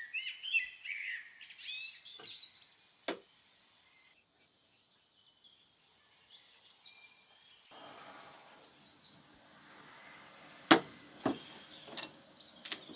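Small birds chirping for the first two seconds, then a handful of sharp knocks, the loudest one about eleven seconds in.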